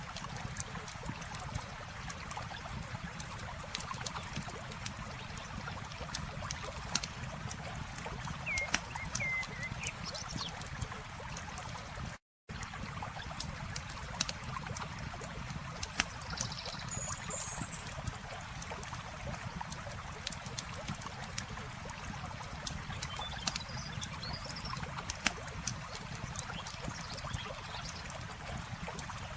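Campfire crackling with frequent sharp pops over the steady rush of flowing water, with a few short chirps now and then. The sound cuts out completely for a moment about twelve seconds in.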